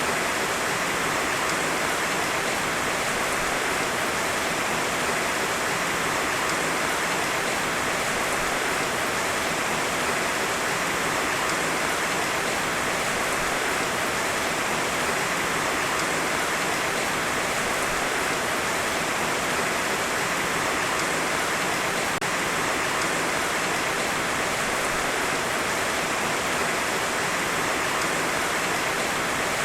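Heavy, steady rain falling without thunder: an even, constant hiss.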